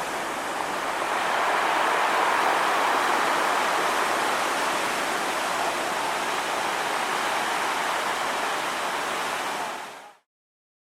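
Heavy surf from a typhoon swell breaking on a sand beach, a steady rush of noise that fades out about ten seconds in.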